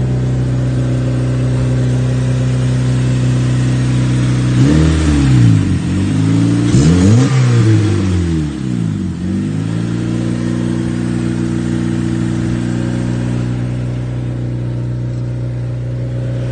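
Turbocharged Honda Civic engine idling, revved twice about five seconds in, then settling back to idle. The engine has rod knock and is not yet warm.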